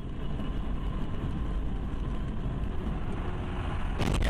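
Steady low rumble of a car driving on the road, with a short sharp bang about four seconds in.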